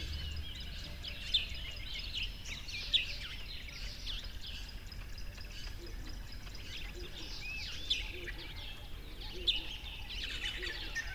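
Many birds chirping and calling over one another, a dense chorus of short high calls and quick pitch glides, with a few sharper, louder chirps standing out now and then.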